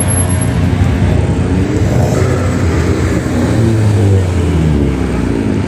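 Car engines running loudly at close range, their pitch rising and falling as cars drive past and rev.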